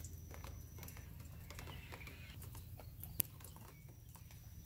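Rain dripping onto a wet wooden deck and plants: quiet, scattered, irregular drips and taps over a steady low rumble, with one sharper tap about three seconds in.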